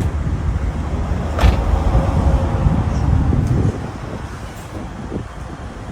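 A high-performance car's engine and exhaust, a deep, heavy rumble with a sharp click about a second and a half in; the rumble drops off noticeably a little past halfway.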